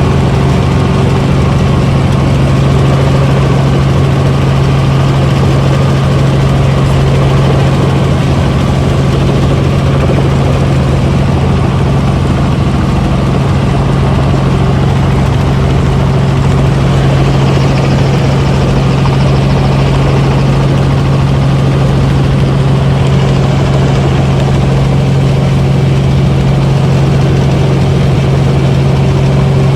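Helicopter's engine and rotors running steadily, heard from inside the cabin: a loud constant low hum over a rushing noise.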